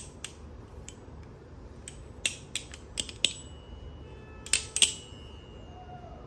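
Titanium-handled balisong trainer being flipped: sharp metallic clicks as the handles swing and strike, a cluster of them about two to three seconds in and the loudest pair near five seconds. The strongest strikes leave a high, ringing tone.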